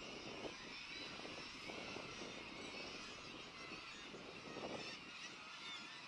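Distant seabird colony of guillemots and razorbills calling in a faint, continuous babble of many overlapping calls.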